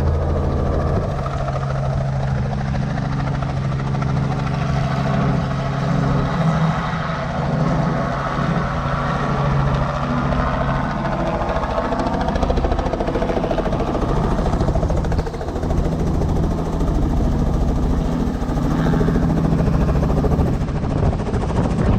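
Helicopter engine and rotor running steadily, a loud continuous drone with a fast, even beat.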